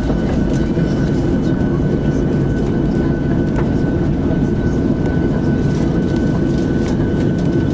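Boeing 737NG cabin noise on the ground after landing: a steady low rumble from the CFM56 engines at idle, with a thin steady whine and a few faint rattles.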